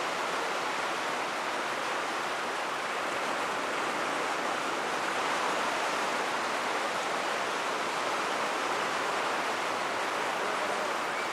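A steady rushing noise, even in level throughout, with no bangs in it.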